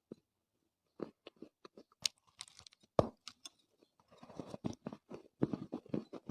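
Dried Chinese loess clay crunching as it is bitten and chewed: a run of separate short crunches, the loudest about three seconds in, becoming denser near the end.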